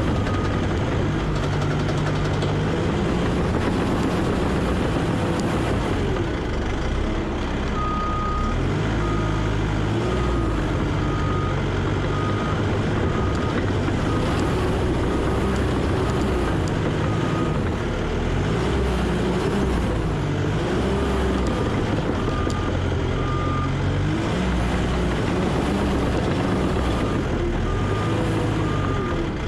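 Diesel engine of a heavy earthmoving machine working, its pitch rising and falling under load, with a backup alarm beeping in runs of steady, evenly spaced beeps about one and a half a second while it reverses, stopping and starting again several times.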